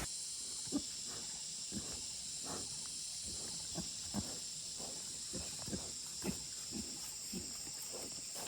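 Steady high-pitched insect chorus, with about a dozen soft, irregular thuds scattered through it.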